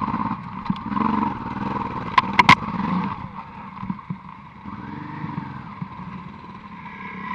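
Honda Transalp motorcycle engine running on a dirt road. Three sharp knocks come a little over two seconds in.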